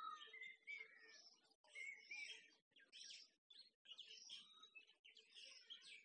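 Faint chorus of songbirds chirping and whistling, with many short overlapping calls and a few rising whistles.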